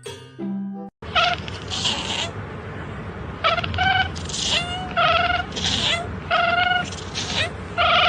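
A cat meowing over and over, a string of short, high meows about one a second. A brief musical jingle ends about a second in, just before the meowing starts.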